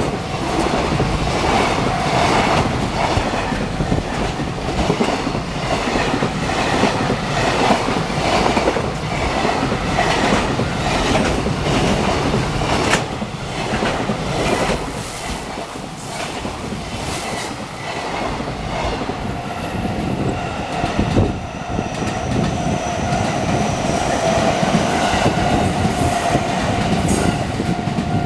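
Train passing close by, its wheels clattering over rail joints in a long, uneven run of clicks. A level-crossing warning bell rings steadily throughout, growing stronger near the end.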